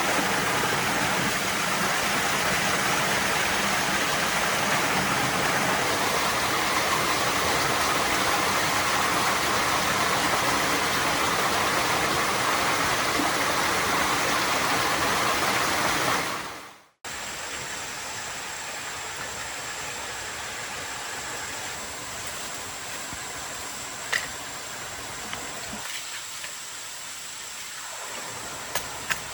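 Steady rushing of water that fades out about sixteen seconds in, followed by quieter forest ambience with a faint high steady tone and a few light clicks.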